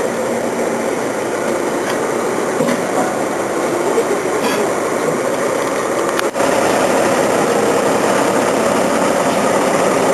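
A heavy vehicle's engine running steadily with a dense rumbling noise, cut by a brief break about six seconds in, after which it is a little louder.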